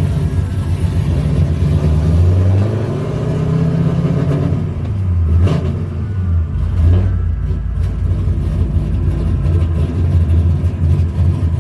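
A car engine running at low speed, its pitch shifting up and down a few times.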